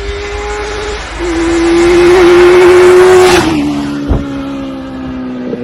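Honda Blackbird 1100 inline-four motorbike engine in a Corsa B, running hard at a steady high note with a growing rush of noise, then the note drops about three and a half seconds in and a single thump follows shortly after.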